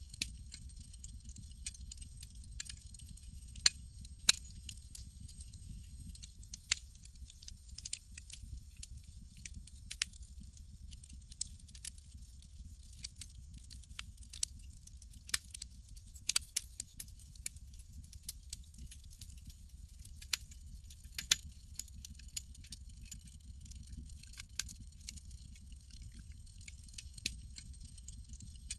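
Campfire crackling: irregular sharp pops and snaps, a few louder ones, over a steady low rumble and a faint high, even hiss.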